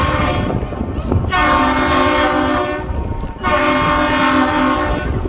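Train horn sounding a chord of several tones in long blasts. One blast ends about half a second in, then two more long blasts of about two seconds each follow with short gaps between them.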